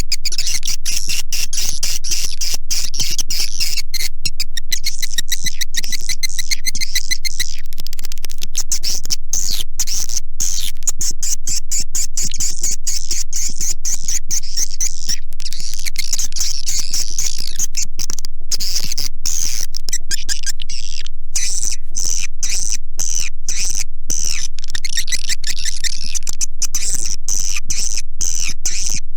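Recorded swiftlet calls played as a lure sound for a swiftlet house: a dense, unbroken twittering of rapid high chirps and clicks.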